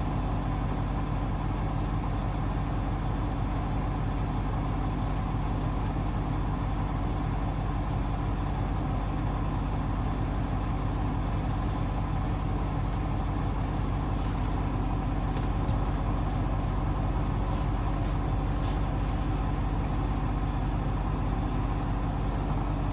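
Hoover DXOA610AHFN-80 front-loading washing machine in its final high-speed spin, the drum and motor giving a steady even hum.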